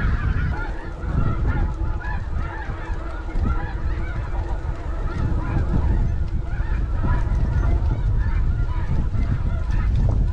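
A large flock of snow geese calling, a dense, continuous chorus of short high honks, over heavy wind buffeting the microphone.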